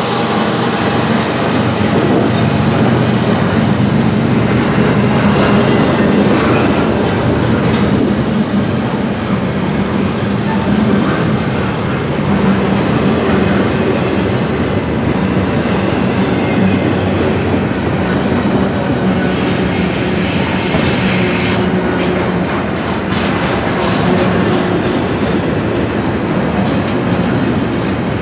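A CSX train rolling past at close range, with the steady rumble and clickety-clack of its wheels over the rail joints and some wheel squeal. About two-thirds of the way through, a brighter hiss rises for a couple of seconds.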